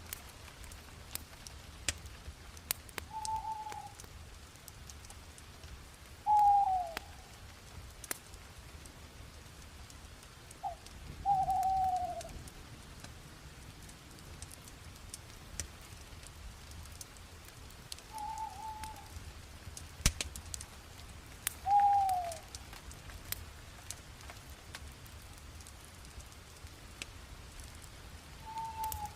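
Bonfire crackling with scattered sharp pops over a low hiss, while a bird gives short calls every few seconds, several of them falling in pitch.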